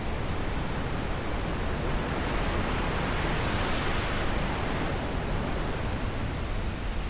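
Wind blowing steadily, a soft rushing that swells a little in the middle and eases off again.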